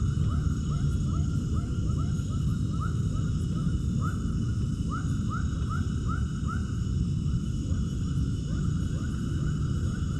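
Animal calls: a rapid run of short rising chirps, several a second, over a steady low rumbling noise.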